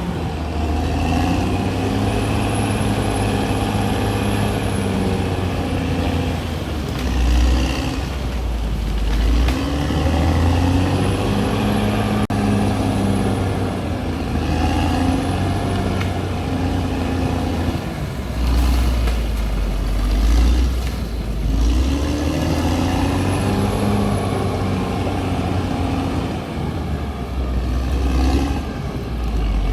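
CAT D6R XL bulldozer's diesel engine working, its pitch rising and falling again and again as the load and revs change, over a constant low rumble.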